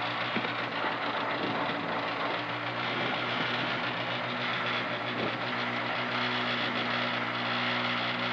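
Škoda Fabia Rally2 evo's 1.6-litre turbocharged four-cylinder engine idling steadily in neutral with the car stationary, heard from inside the cockpit.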